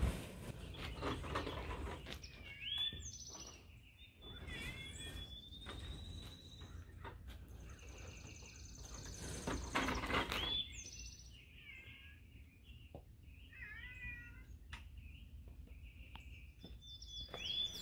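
Songbirds singing outdoors: repeated high whistled and warbling phrases, one a long held whistle, with a few soft knocks underneath.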